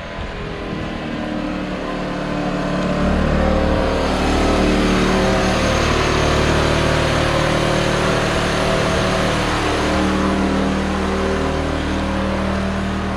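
Small emergency backup generator's engine running steadily, growing louder over the first few seconds as it is approached, then holding at a steady level with its pitch wavering slightly. It is carrying the power supply because the water wheel has stalled.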